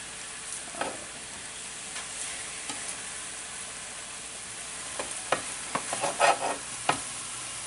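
Pieces of filet mignon searing in hot olive oil in a frying pan: a steady sizzle. Several sharp clicks and scrapes of a utensil stirring the meat come in the second half.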